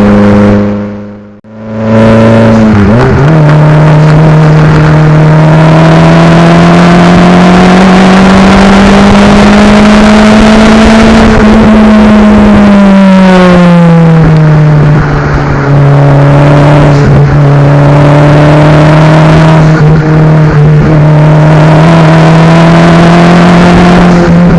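Daihatsu Copen L880K's turbocharged 660 cc four-cylinder engine and exhaust pulling uphill, very loud. The sound drops out briefly about a second in. The engine note then climbs slowly, falls away around halfway, and holds steady again.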